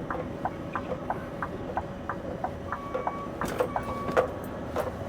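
Turn-signal relay ticking in the cab of a Scania V8 truck, about three ticks a second, over the low hum of the idling V8. Two brief high beeps sound near the middle.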